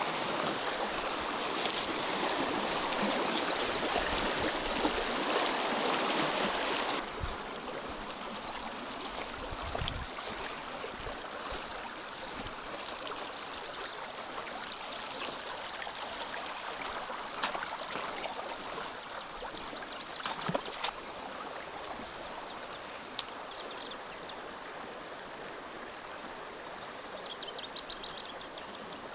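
Running water of a stream, a steady rushing that is louder for the first seven seconds, then drops suddenly to a softer flow. A few short high chirps come near the end.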